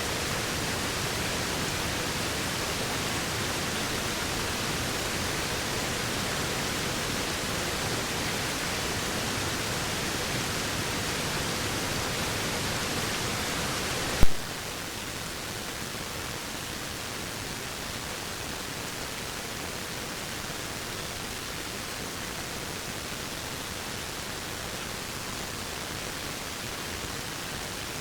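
Steady rushing of a waterfall. About halfway through comes a single sharp click, after which the rush is a little quieter and duller.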